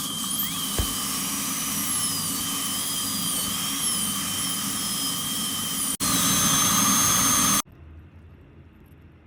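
Dental high-speed drill running with a steady high-pitched whine and hiss. After a cut about six seconds in it comes back louder and higher, then stops abruptly, leaving a faint low hum.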